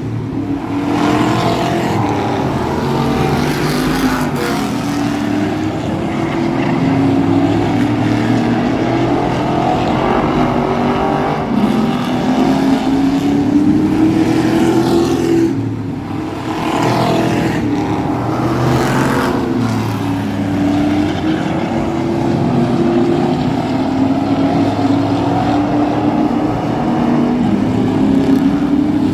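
Race truck engine running hard on a short oval track. Its pitch climbs for several seconds, then drops sharply as the throttle is lifted for the corners, a few times over.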